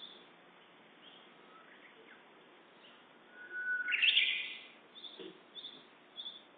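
Japanese bush warbler singing its hoo-hokekyo song once about halfway through: a long steady whistle that breaks into a loud, quick rising phrase. Short high chirps repeat a few times at the start and near the end.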